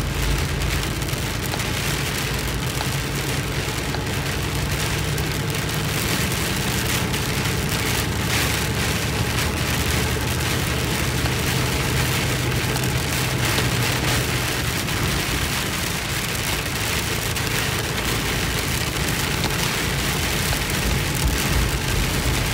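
Heavy rain pelting the car's roof and windshield, heard from inside the moving car as a dense, steady hiss. The car's low drone runs steadily underneath.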